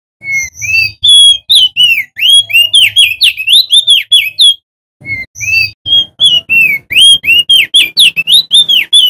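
Male opior jambul (crested white-eye) singing: fast, loud runs of slurred whistled notes, in two phrases of about four seconds each with a brief break between them.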